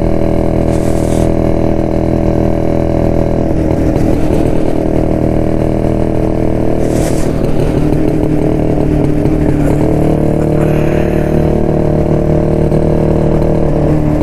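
A 1972 Jawa motorcycle's two-stroke single-cylinder engine running steadily while riding, its note shifting about four seconds in and again around eight seconds as the throttle changes. Two short hissing rushes come through, one near the start and one about halfway.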